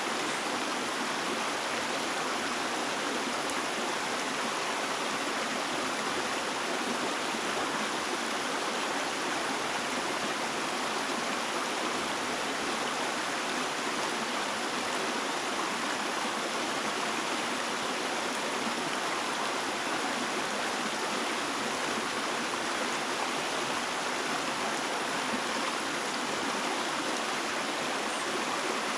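Running water of a stream, a steady, even rush with no distinct splashes or breaks.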